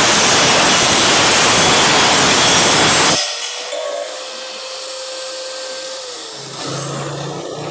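Power grinder biting into steel tubing with a loud, even grinding rasp that stops abruptly about three seconds in. The tool is then left running free with a steady whine, which sinks in pitch as it is switched off and spins down near the end.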